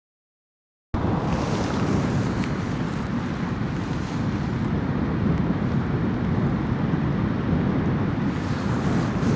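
Wind rushing over the microphone: a steady, dense roar with no clear tone that cuts in suddenly about a second in, out of dead silence.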